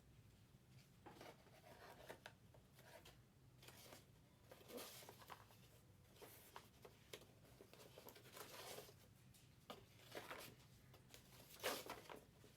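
Faint, irregular rustling and sliding of trading cards and pack wrappers being handled, a soft scrape every second or so, the loudest one near the end.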